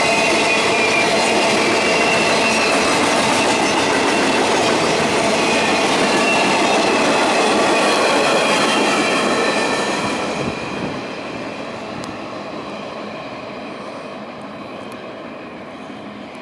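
Freight train of steel gondolas and a caboose rolling past: steady wheel-on-rail noise with a high-pitched wheel squeal. The noise drops away about two-thirds of the way through as the end of the train passes and recedes.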